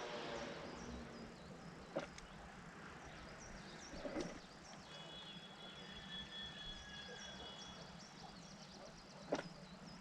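Faint outdoor ambience with many small, high chirps, most likely birds, and a steady high tone held for about three seconds midway. Three sharp knocks or snaps stand out, at about two seconds, four seconds and near the end.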